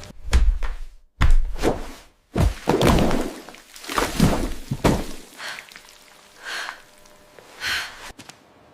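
A series of dull thuds and knocks from AI-generated food ASMR sound effects: three heavy hits in the first two and a half seconds, then a run of quicker, crisper knocks, and a few softer hissing sounds near the end.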